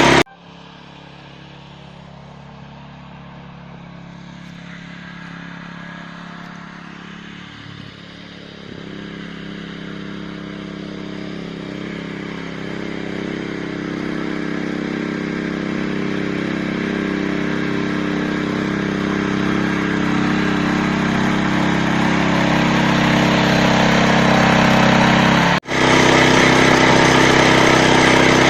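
Walk-behind tractor engine running steadily and growing gradually louder over about 25 seconds, with a brief cut-out near the end, then running loud.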